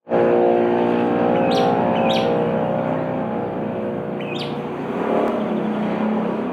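Lovebird giving three short, sharp chirps, twice close together about a second and a half in and once again past four seconds, over a loud, steady droning hum of unclear source.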